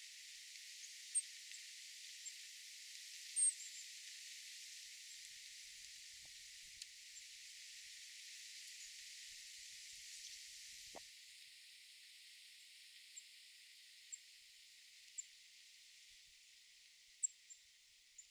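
Small birds chirping: short, very high single chirps every second or two, the clearest about a second in, three seconds in and near the end, over a faint steady high hiss.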